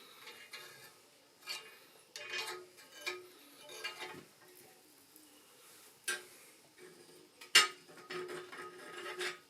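Forged steel being handled and twisted: scattered light metallic clinks and scrapes with short pauses, one sharper clink a little past seven seconds in.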